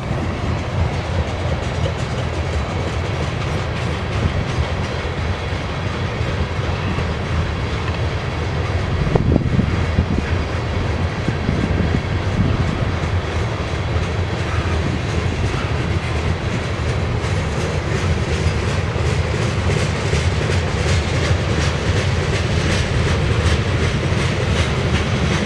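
Freight train of grain hopper cars rolling past: a steady rumble of wheels on rail, with a regular clickety-clack of wheels over the rail joints that grows clearer in the second half.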